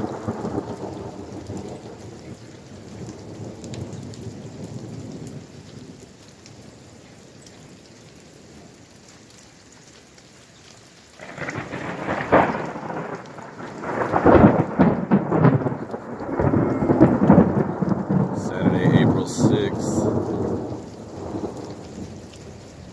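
Thunder with steady rain falling. A rumble fades over the first few seconds, then about eleven seconds in a new clap breaks into loud crackling, rolling thunder that dies away near the end.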